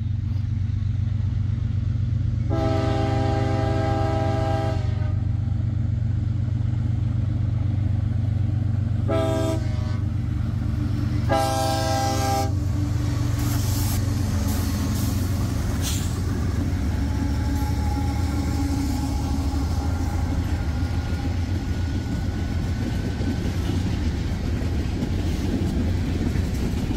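CSX freight train's diesel locomotives approaching and passing, the horn sounding three blasts (a long one, a short one, then another long one) over the steady rumble of the engines. After the locomotives go by about halfway through, loaded covered hopper cars roll past with a steady rumble of wheels on rail.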